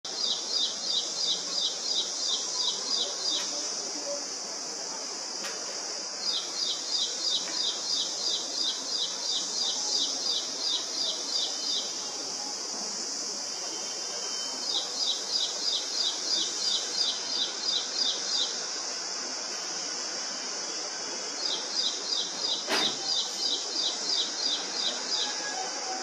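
Ashy prinia singing in four bouts, each a rapid run of repeated sharp notes at about four a second and lasting three to six seconds, with short pauses between. A steady high insect drone runs underneath, and there is one sharp click near the end.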